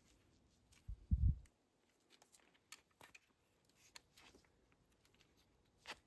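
Faint hand-work noises: small clicks, taps and rubbing while the motorcycle's oil filter gasket is greased and set in place, with one dull low thump about a second in.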